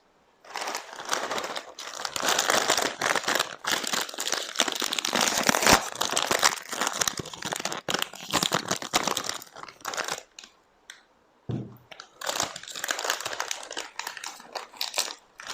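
Food packaging being handled and crinkled, with some tearing: a dense run of crackling that stops for about a second around ten seconds in, then starts again.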